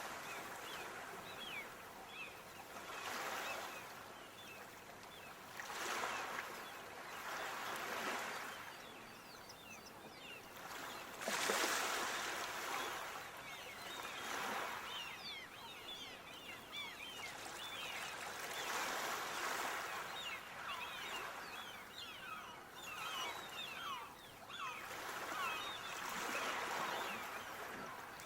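Water washing in repeated swells every two to three seconds, like small waves lapping. Many short, quick bird chirps join from about a third of the way in.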